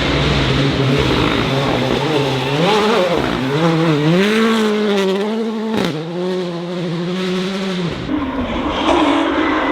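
Rally car engine at full throttle, its note climbing and dropping repeatedly as it revs up and shifts gears. About eight seconds in the note changes abruptly to a different, steadier engine sound.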